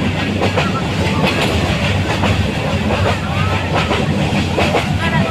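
Moving train running on the track: a steady low rumble of the wheels with sharp clacks over the rail joints.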